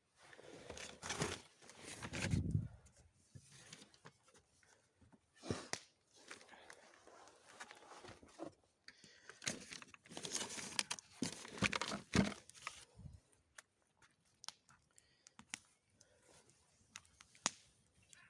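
Handling and movement noises in a small enclosed space: irregular rustling, crinkling and crunching with scattered sharp clicks, busiest over the first dozen seconds and then only occasional clicks.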